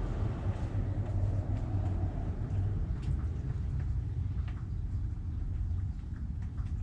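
A low, steady rumble with a few faint short sounds above it.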